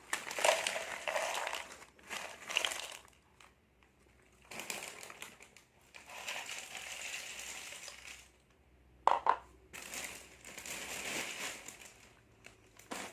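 Plastic seblak snack packets crinkling and crackling as they are handled and opened, in several spells of a second or two with short pauses between them, and a sharper crackle about nine seconds in.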